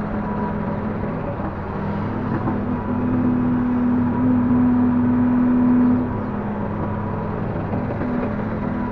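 Diesel engine of a Link-Belt 145X3E hydraulic excavator running steadily while it works. About three seconds in, its hum grows louder and fuller under hydraulic load, then drops back suddenly about six seconds in.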